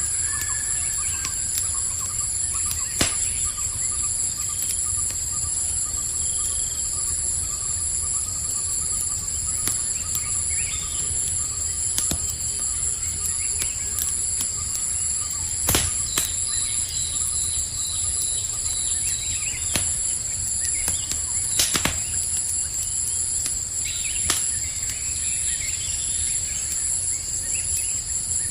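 Campfire burning with a few sharp crackling pops, over a steady high-pitched chorus of night insects such as crickets.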